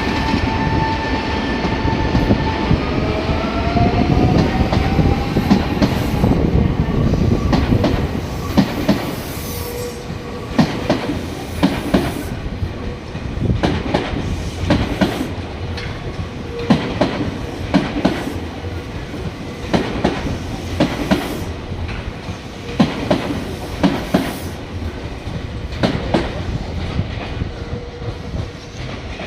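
Nankai electric multiple-unit train departing. A motor whine rises in pitch over the first few seconds as it pulls away, then the wheels clack over rail joints again and again as the cars roll past.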